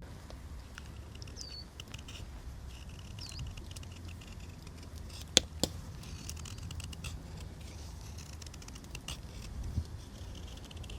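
A carving knife shaving wood by hand: many small, irregular clicks and scrapes, with two sharp snaps about five and a half seconds in. A bird chirps twice early on over a low steady rumble.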